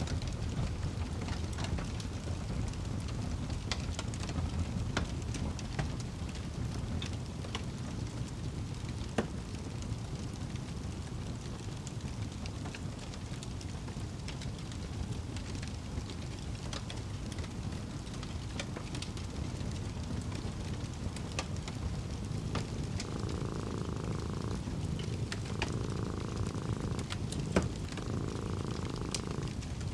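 Wood fire crackling in a fireplace, with scattered sharp pops, over a steady low rumble of a cat purring. Near the end a softer mid-pitched layer swells in and out three times.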